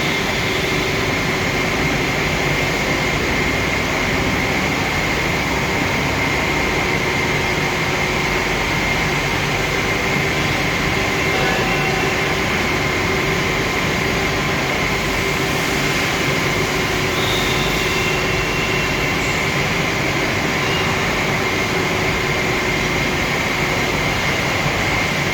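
A machine running steadily: a constant dense rushing noise with several faint steady whining tones held throughout.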